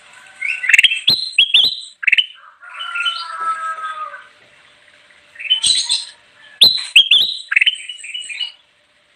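Kutilang emas bulbul singing: bursts of quick, rising chirped and whistled notes with sharp clicky notes among them, broken by a short pause in the middle, stopping just before the end.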